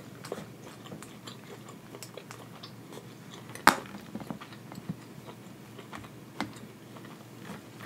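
Close-up chewing with small soft clicks, and a metal fork picking through food in an aluminium foil pan, with one sharp clink about three and a half seconds in.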